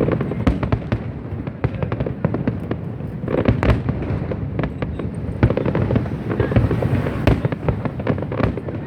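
Fireworks going off in quick succession, a steady barrage of bangs and crackling with a low rumble, several louder booms standing out.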